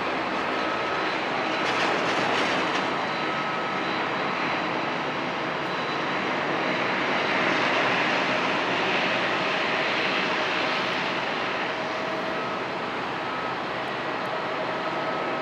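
Airbus A320-214's CFM56 jet engines at takeoff thrust: a steady rushing noise with a thin whine through it, swelling a little twice as the airliner rolls and climbs out.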